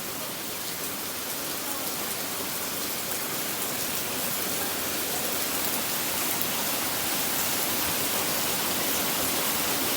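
Heavy thunderstorm rain pouring steadily, hail having just given way to rain; the downpour grows slowly louder.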